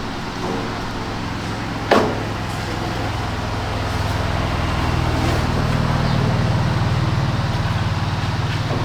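A steady low mechanical hum that rises slightly in pitch and loudness about five seconds in, with a single sharp knock about two seconds in.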